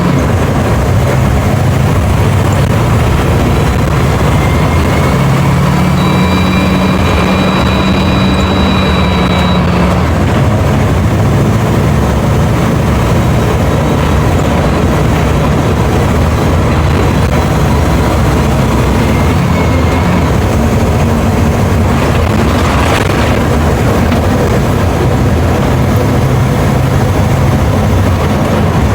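Mercedes-Benz OF 1721 BlueTec 5 bus diesel engine running loudly and steadily, its low note shifting slightly in pitch, with a thin high whine heard in the first ten seconds or so.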